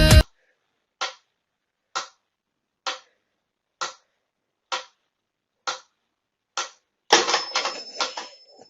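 Seven sharp ticks about once a second, evenly spaced like a clock, with dead silence between them, then a quicker run of clicks near the end.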